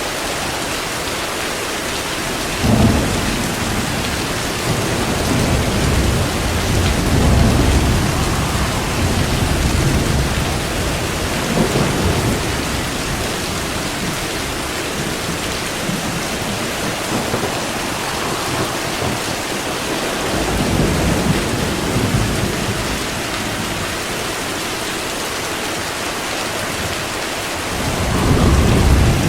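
Steady rain hissing down during a thunderstorm, with thunder rumbling several times: one comes in suddenly about three seconds in, a long rolling peal follows, another comes midway, and a louder one swells near the end.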